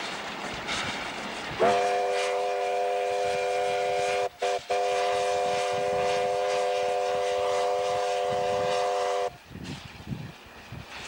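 Steam locomotive W901's whistle sounding one long blast, a chord of several notes that breaks off twice very briefly partway through and then stops. The train's running noise is heard around it.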